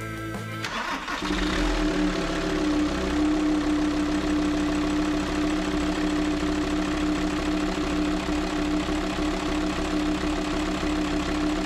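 Volkswagen Transporter T5 five-cylinder diesel starting about a second in, then settling into a steady idle. It is running on a freshly replaced camshaft and tappets.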